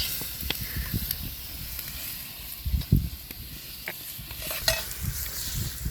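Food sizzling in a pan over a cooking fire, a steady hiss with scattered clicks and a few low knocks.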